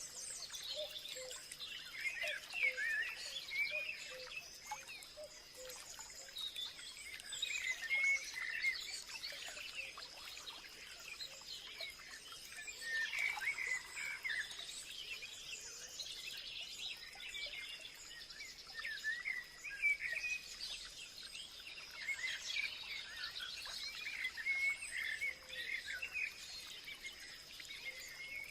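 A chorus of many birds chirping and trilling at once, short overlapping calls that never stop, with a steady high thin tone running underneath.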